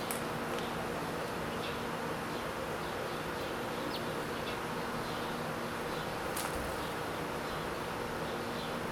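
Steady buzzing drone of beating wings, with a few faint high chirps and two sharp clicks, one just after the start and one about six and a half seconds in.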